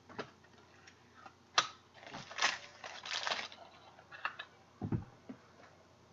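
Trading cards and their plastic holders being handled: a few sharp clicks, two short spells of crinkly rustling a little past halfway, and a couple of soft low thumps near the end.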